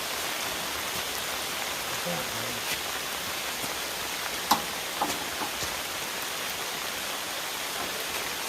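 Heavy rain falling steadily, with a few louder single drops striking near the middle.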